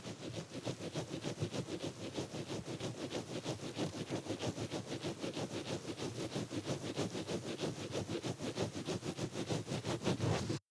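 Ear-pick scratching, close-miked: a fast, even run of scraping strokes, about five a second, that stops abruptly near the end.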